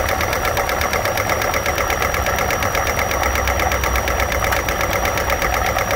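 Hyundai Elantra GLS 16-valve DOHC four-cylinder running steadily with its valve cover off, the exposed camshafts and valvetrain giving a rapid, even clatter.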